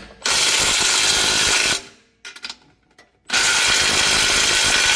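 Power tool run in two steady bursts of about a second and a half each, with a short pause between them, tightening down the bolts at a leaking exhaust joint.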